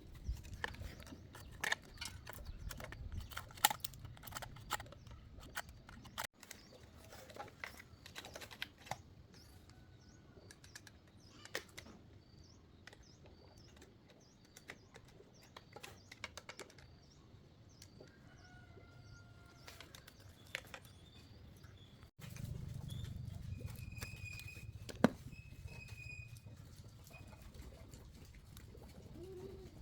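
Irregular clinks and knocks of hand tools working on excavator metal parts, with birds chirping in the background.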